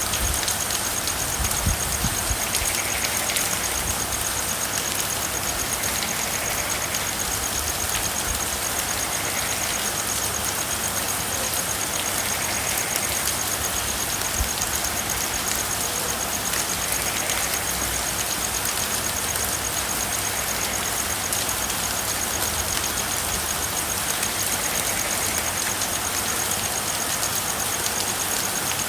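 Steady rain, an even hiss of falling drops, with a low thump about two seconds in and again about halfway through.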